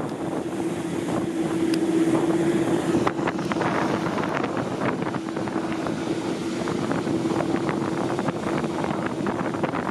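Engine drone with a steady hum, overlaid by a rapid scatter of rattles and clicks.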